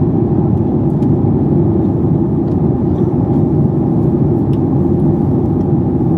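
Steady, loud cabin rumble inside a Boeing 737 MAX 8 airliner: the noise of its engines and the air rushing past the fuselage, heard from a passenger seat.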